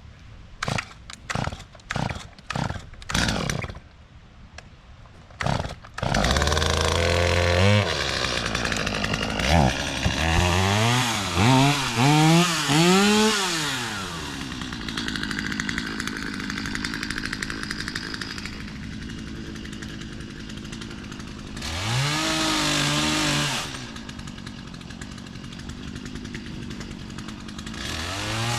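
Several short, sharp sounds, then a chainsaw starts about six seconds in. It revs up and down several times, then runs steadily while cutting crepe myrtle branches, with another burst of revving later on.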